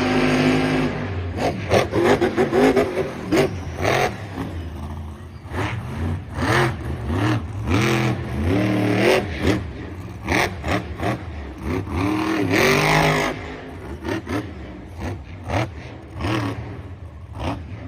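Car engine revving up and down again and again, its pitch rising and falling in repeated swells over a steady low rumble.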